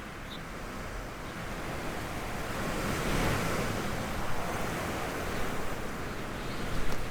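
Storm wind gusting, a rushing noise that swells to a peak about three seconds in and then eases off. A short bird chirp near the start and a couple of sharp taps near the end.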